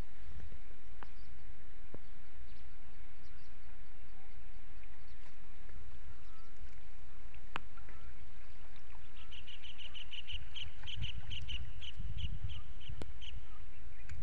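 Steady low wind rumble on the microphone with a few faint clicks. From about nine seconds in, a bird gives a fast run of short high chirps, about five a second, for around four seconds.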